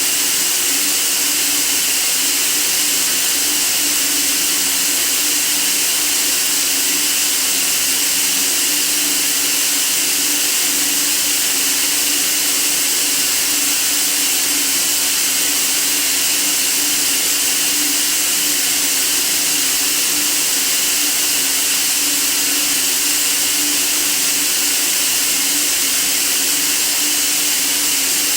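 Steady white-noise hiss for sleep, strongest in the high range, with a steady low hum underneath and no change throughout.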